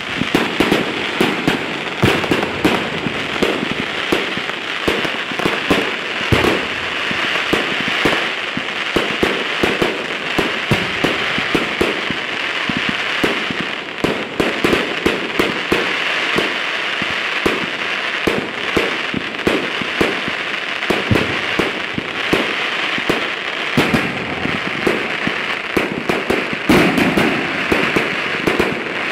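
Display fireworks going off in a continuous barrage: rapid, overlapping shots and crackling bursts, many each second, over a steady hiss.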